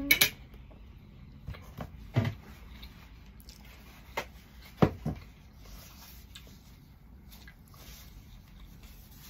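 Close chewing of a mouthful of food, with a few separate sharp clicks and knocks of cutlery set down against a plate.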